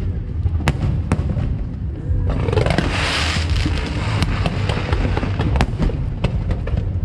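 Aerial fireworks bursting: a string of sharp bangs, with a dense burst of crackling hiss between about two and four seconds in.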